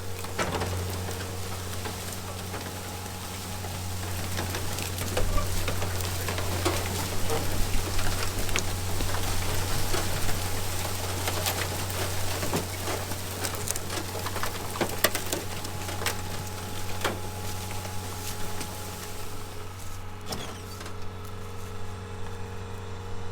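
An engine idling steadily with a low hum, under scattered sharp crackles and snaps and a hiss that dies away about 20 seconds in.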